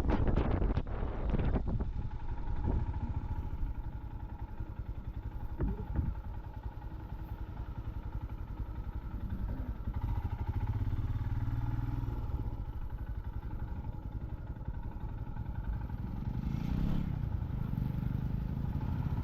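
Motorcycle engine running steadily with a low pulsing rumble, with a few sharp clicks in the first couple of seconds.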